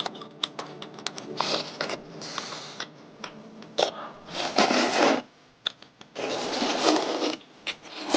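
Eating sounds: many quick clicks and smacks, with two longer noisy bursts about halfway through and again near the end.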